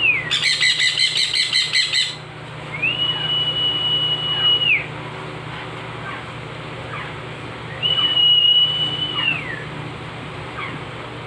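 Young parrots calling during hand-feeding: a harsh, rapidly pulsing squawk for about two seconds, then two long level whistles, each about two seconds and dropping in pitch at the end. Faint short chirps come between them.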